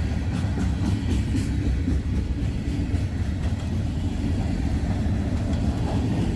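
Freight train's tank cars rolling past, a steady low rumble of steel wheels on rail with a few faint clicks.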